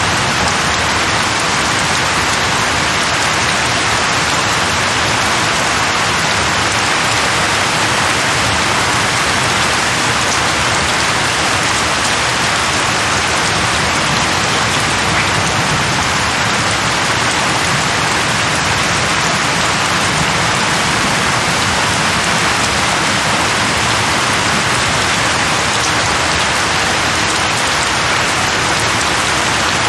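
Heavy rain pouring steadily: a dense, even hiss with no let-up.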